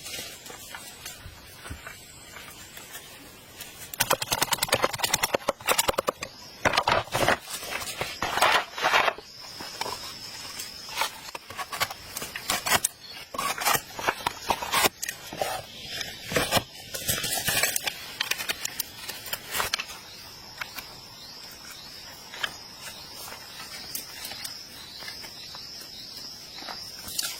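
Loud bursts of rapid crackling and scraping from about four seconds in until about two-thirds through. Under them, from about nine seconds in, a steady high-pitched drone of insects, typical of crickets.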